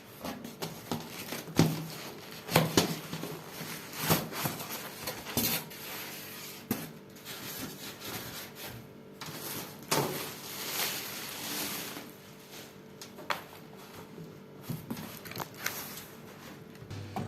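Irregular knocks, clicks and rustling of packaging as a microwave oven is handled and unpacked from its box, with a longer rustling stretch about two-thirds of the way through.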